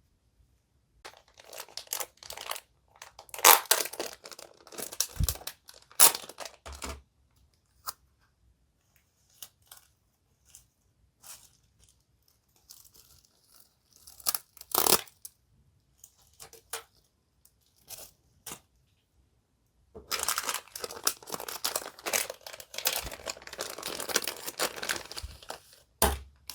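Crinkly wrapping material being handled, crumpled and torn in bursts, with a few sharp clicks between.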